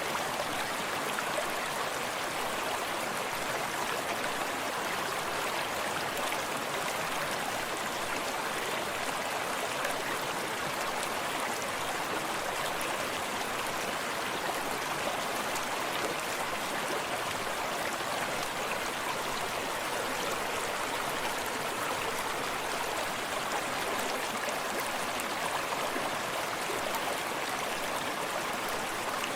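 A forest stream running steadily, water babbling and splashing over stones in an even, unbroken rush.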